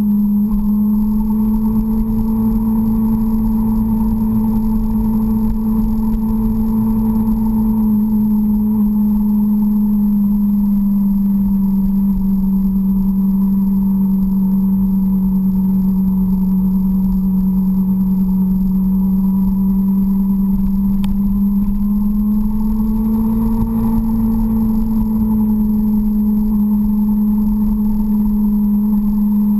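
Suzuki GSX-R sport bike's inline-four engine running steadily at cruising speed, heard from a camera mounted on the bike, with a low rumble underneath. The engine's pitch sags slightly through the middle and climbs back near the end.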